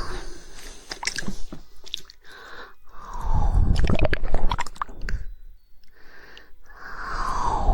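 Close-miked ASMR mouth sounds: wet, squishy mouth noises mixed with scattered sharp tongue clicks, in louder wet stretches about three seconds in and again near the end.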